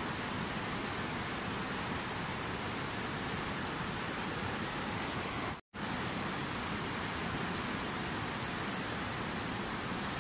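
Steady rushing water, an even hiss with no pattern to it, used as a relaxing background sound. It cuts out completely for a split second a little past halfway, then resumes unchanged.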